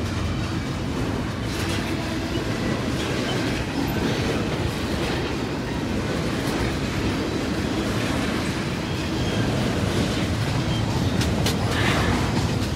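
Double-stack intermodal well cars of a freight train rolling past close by: a steady rumble of steel wheels on rail, with clickety-clack over the rail joints and a few sharp clicks near the end.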